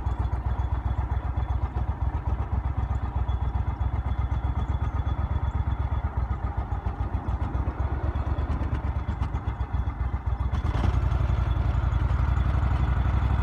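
An engine running with a steady low rumble, growing louder about eleven seconds in as it is throttled up.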